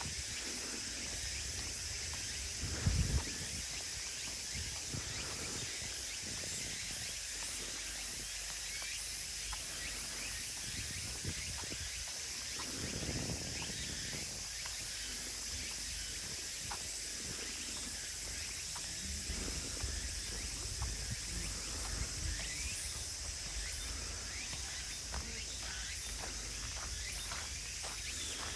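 A steady chorus of insects chirring in woodland, with light footsteps on a path and a few brief low rumbles; the loudest rumble comes about three seconds in.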